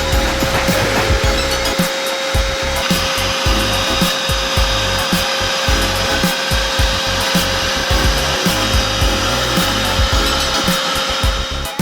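Sukra 20-litre wet/dry vacuum cleaner running steadily, a constant motor whine over the rushing hiss of its suction. The hiss grows brighter about three seconds in, and the motor stops right at the end.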